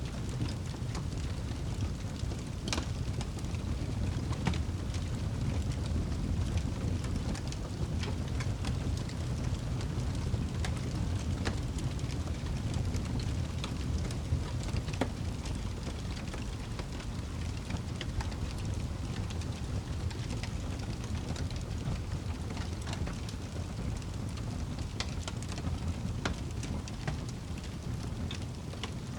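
Wood fire in a fireplace burning with a steady low rumble and irregular sharp crackles and pops from the logs.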